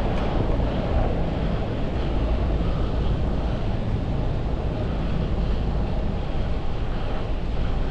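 Steady wind rush on a GoPro action camera's microphone while riding a road bike, with the rumble of road and traffic noise underneath.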